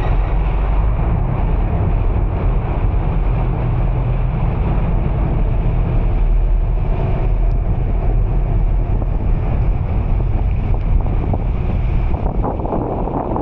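Steady low rumble of wind buffeting the microphone, mixed with vehicle noise, with no speech.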